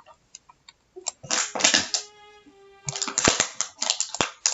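A few mouse clicks, then two short stretches of a beat loop playing back from the computer, with hard percussive hits and held chord tones between them.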